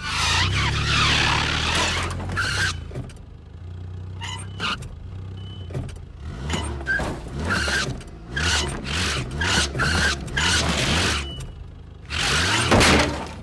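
Cartoon car engine running steadily while the car and boat trailer are maneuvered back and forth. It is broken by a loud noisy stretch at the start, a rapid series of short sharp noises in the middle, and another loud burst near the end.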